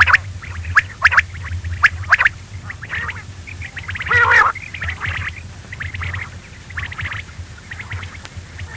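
Quail calling: a run of short, sharp chirps, with a longer, louder call about four seconds in, over a steady low hum.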